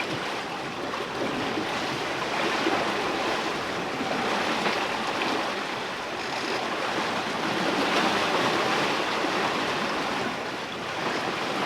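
Sea water rushing along a sailboat's hull and waves breaking around it under sail, with wind, swelling and easing every few seconds.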